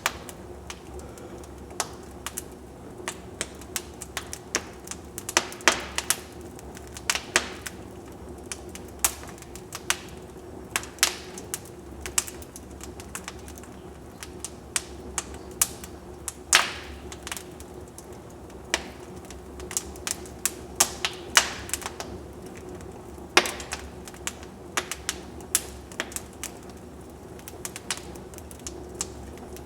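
Wood fire in a fireplace crackling: irregular pops and snaps of burning logs, a few much louder than the rest, over a steady low rush.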